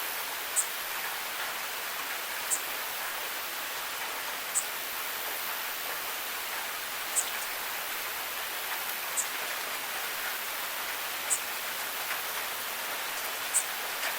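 Steady rain falling, an even hiss, with a short high-pitched tick about every two seconds.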